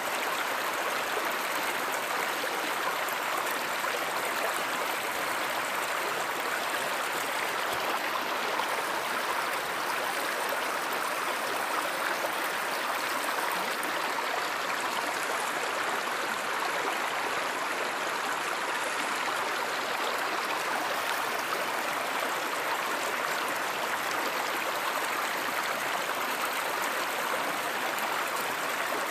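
Stream water running steadily, an even rushing and gurgling that does not change.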